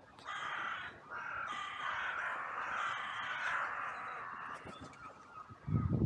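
Several crows cawing, their calls overlapping into an almost continuous run that fades out after about four and a half seconds. About a second before the end, a loud, low rough noise breaks in.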